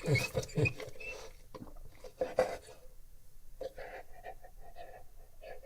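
A Bullmastiff's close-up nose and mouth sounds: several short, sharp noisy sniffs or smacks in the first second and again about two and a half seconds in, then softer, quieter breathing sounds.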